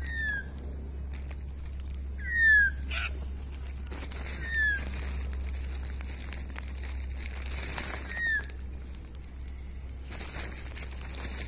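Bird calls: a short, clear whistled note falling in pitch, given four times about two seconds apart. A soft flurry of wing flaps comes near the end.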